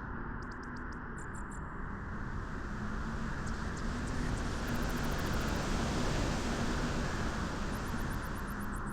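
Steady wind blowing, its hiss growing brighter and a little louder from about three seconds in and easing near the end. Faint trains of rapid, very high ticks sound over it now and then.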